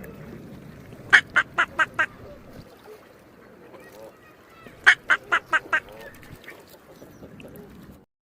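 Duck quacking: two quick runs of about five quacks each, a few seconds apart.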